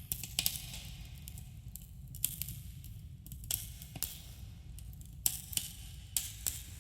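Campfire crackling: sharp snaps and pops, about one every half second to second, over a steady low rumble of burning wood, with a slight cave echo.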